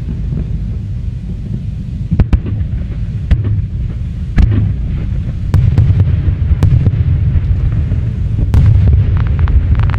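Aerial fireworks display: a continuous deep rumble of shells going off, with sharp booms of bursting shells about every second from around two seconds in.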